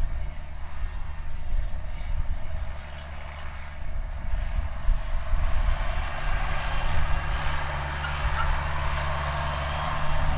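Case IH Magnum 305 tractor's engine running steadily under load while pulling a planter. It grows louder and brighter about halfway through.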